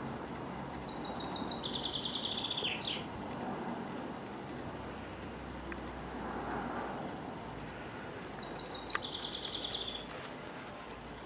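A songbird sings twice: each song is a fast trill of repeated high notes, the first dropping in pitch at its end. Behind it runs steady outdoor background noise with a thin high hiss.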